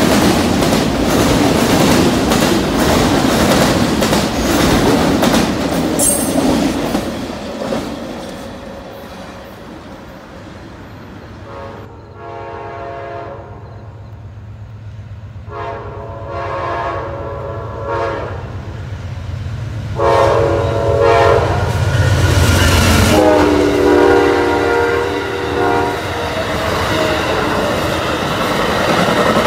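Amtrak Auto Train autorack cars rolling past over a bridge with a steady rumble and wheel noise. After a cut, an Amtrak passenger train approaches with its diesel locomotive's engine rumble rising and its horn blowing several blasts, two long ones then a shorter one and a final long one, before the locomotive rushes past and the cars clatter by on the rails.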